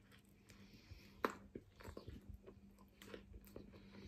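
Faint close-up chewing of a mouthful of chicken shawarma wrap: soft, wet mouth clicks and smacks at irregular intervals, with one sharper click about a second in.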